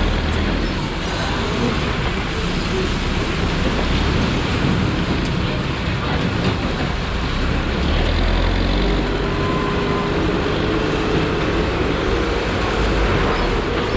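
Busy street traffic: motor vehicles running with a low rumble under a steady wash of street noise. A drawn-out steady tone joins about nine seconds in.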